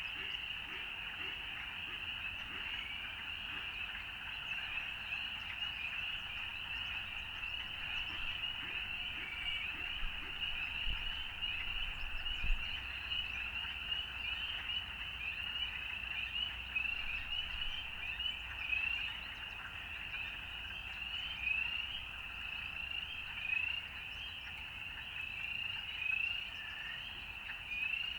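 A dense chorus of frogs calling without pause, many short rising peeps overlapping on a steady high trill.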